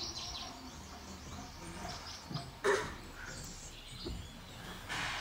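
Faint outdoor background with small birds chirping in the distance, and a short, slightly louder sound about halfway through.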